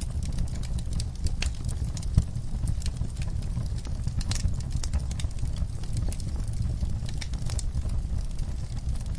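Wood fire burning in a fireplace: a steady low rumble of flames with logs crackling in irregular sharp pops, one louder pop about two seconds in.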